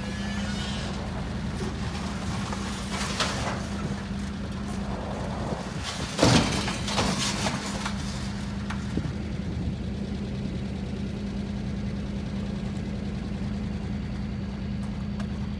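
A steady low engine hum, like a motor idling. Short, louder knocks break in around three seconds and six seconds in, the one at six seconds the loudest.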